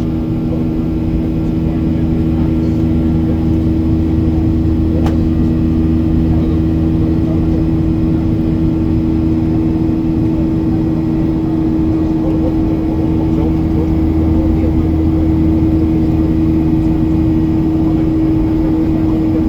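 Steady drone of a Boeing 737-800's CFM56-7B jet engines heard from inside the passenger cabin in flight, with a constant low hum under a wash of airflow noise. A faint click sounds about five seconds in.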